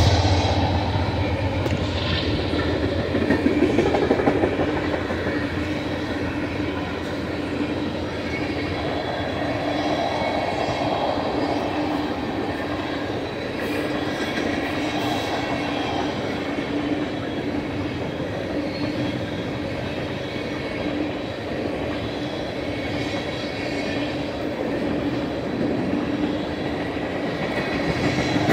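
Empty ethanol tank cars of a long BNSF freight train rolling past, a steady rumble of steel wheels on the rails.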